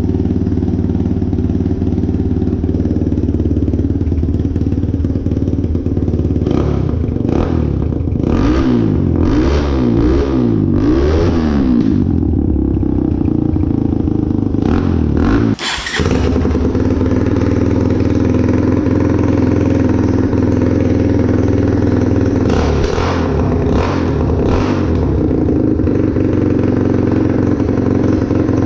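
Small off-road motorbike engine running through its new exhaust. It runs steadily, with a stretch of repeated throttle blips that rise and fall in pitch. About halfway through there is a sharp pop and a momentary dip, then it goes back to running steadily.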